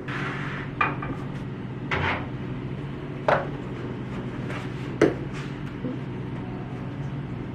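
Five short clinks and knocks of tableware, spaced a second or so apart, over a steady low hum.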